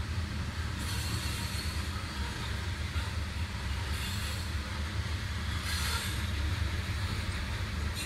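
Train rolling past on the rails: a steady low rumble of wheels and cars, with short bursts of high hissing wheel noise every second or two.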